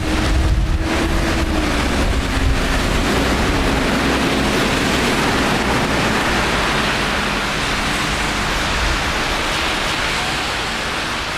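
Steady hiss of rain and traffic on a wet city street. A vehicle's hum slides slowly lower in pitch over the first several seconds as it passes.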